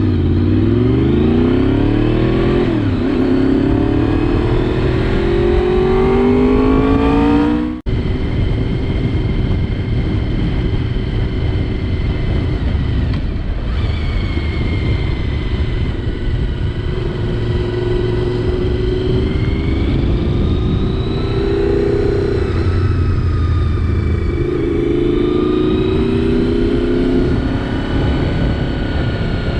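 Honda VFR750 V4 motorcycle engine heard from a helmet camera with wind noise. It accelerates with rising pitch and shifts gear about three seconds in. After an abrupt cut near eight seconds it runs on at varying speed, its pitch rising and falling.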